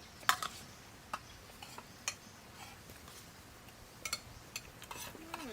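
Metal spoon clicking and clinking against a plate while eating fried rice: a handful of light, scattered clicks about a second apart.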